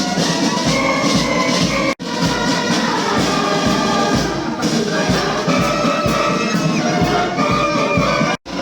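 Police brass band playing: brass instruments hold sustained chords that change every second or so over a steady drum beat. The sound cuts out for an instant about two seconds in and again near the end.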